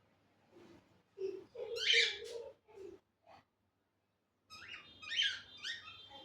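Pet cockatiels calling with short squeaky chirps, in two bursts: one starting about a second in and another from about four and a half seconds.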